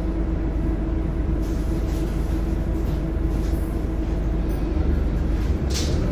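Scania DC9 diesel engine of a Scania K230UB bus idling steadily at an even pitch. A short hiss comes near the end.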